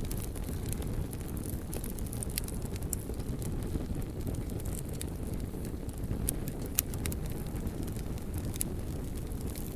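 Wood fire burning, a low steady rumble with scattered sharp crackles and pops, the loudest pop about two-thirds of the way through.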